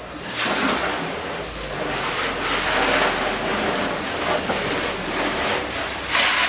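Water spraying: a loud, steady rush of hissing noise that starts about half a second in.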